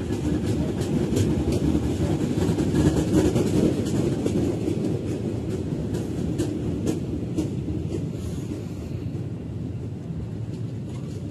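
KRL Commuter Line electric commuter train running past close alongside, a steady rumble with a quick run of clicks as the wheels cross the rail joints. It fades off in the last few seconds as the train pulls away.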